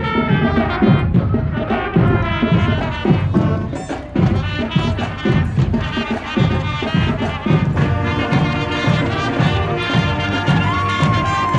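Marching band playing: brass instruments over drums with a steady beat.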